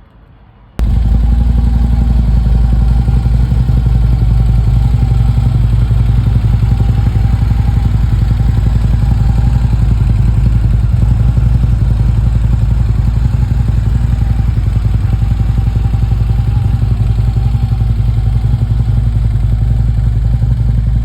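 Harley-Davidson motorcycle's V-twin engine running steadily, loud and close, cutting in abruptly about a second in.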